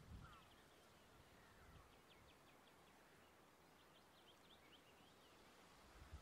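Near silence with faint distant bird calls: a few short falling chirps and two quick runs of high notes.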